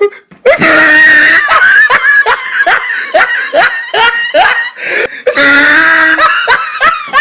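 A laughing sound effect: a person's laugh in a quick run of short, rising bursts, about three a second, followed by a longer drawn-out laugh near the end.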